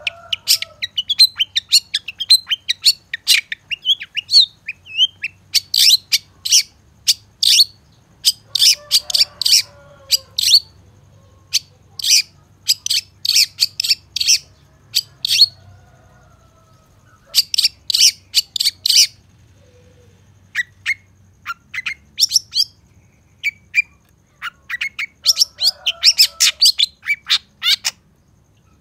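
Long-tailed shrike (cendet) singing: rapid strings of sharp, high chirping notes in bursts of a second or two, separated by short pauses.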